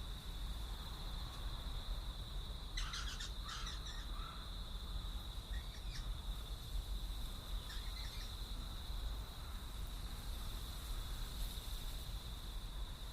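Outdoor bird calls: a cluster of short harsh calls about three seconds in, with fainter ones around six and eight seconds, over a steady high-pitched drone and a low rumble.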